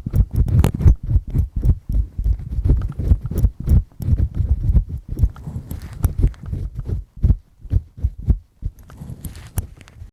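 Double-disc earpick scraping and scratching firmly inside an ear, close up, in quick irregular strokes that thin out over the last few seconds and then stop abruptly.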